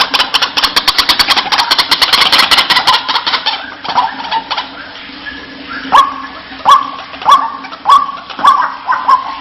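White-breasted waterhen calling: a dense, rapid chatter of repeated notes for the first few seconds, then from about six seconds in a run of separate 'wak' notes, each sweeping upward, about one and a half a second.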